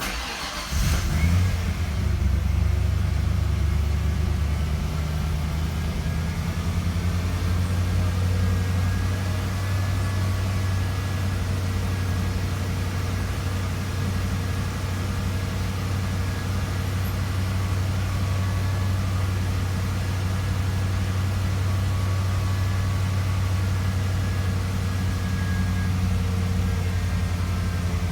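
Ford Bronco engine starting from cold: it turns over and catches about a second in, flares up briefly, then settles into a steady idle.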